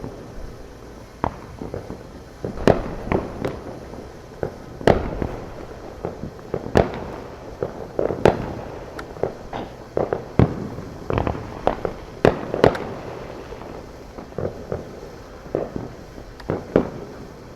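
Neighbourhood consumer fireworks and firecrackers going off, dozens of separate bangs and pops of varying loudness at irregular intervals, some close together, with the echoes of the louder ones trailing after them.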